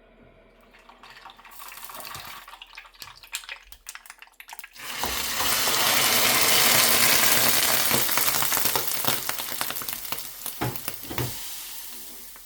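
Food sizzling in a hot frying pan: a few clicks and knocks of handling first, then a loud sizzle that starts suddenly about five seconds in and slowly dies down.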